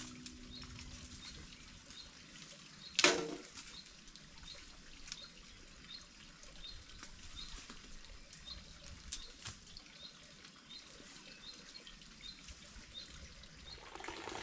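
Faint rain and dripping water, with scattered sharp drips and one louder knock about three seconds in. A short, high chirp from a bird or small animal repeats steadily throughout.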